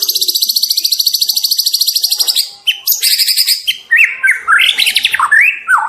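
Juvenile white-rumped shama (murai batu trotol) singing: a fast, high trill of rapidly repeated notes for about two seconds, then a run of varied whistled notes sliding up and down.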